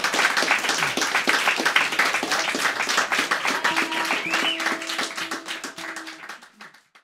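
Small audience clapping and applauding at the end of a song, thinning out and dying away near the end.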